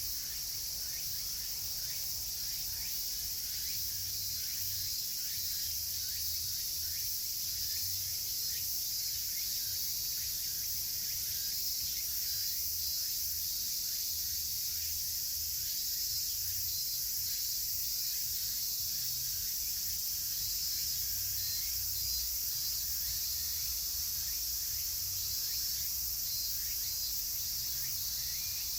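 Dense chorus of summer cicadas (semi-shigure), a steady shrill drone, with short falling calls repeating faintly underneath.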